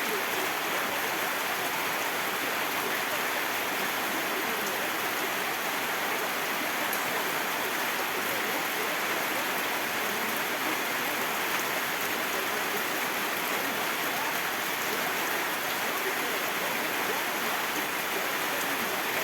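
Steady rain falling, a continuous even hiss of water.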